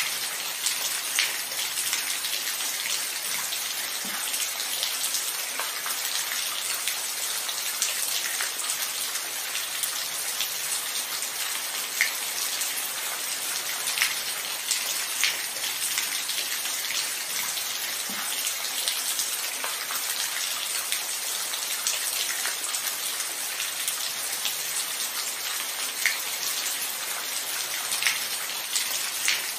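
Steady rainfall, a continuous hiss with individual heavier drops ticking sharply every few seconds. No thunder.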